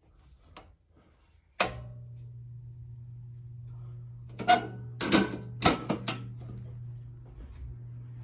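A circuit breaker snaps on with a sharp click about one and a half seconds in, and a steady low electrical hum starts at once and keeps on. A cluster of loud clicks and knocks follows about three seconds later.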